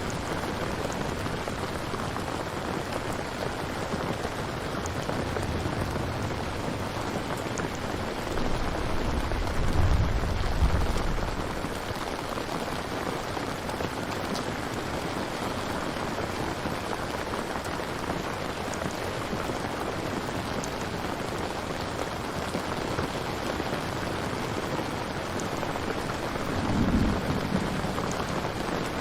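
Steady heavy rain falling, with low rolls of thunder rumbling about ten seconds in and again near the end.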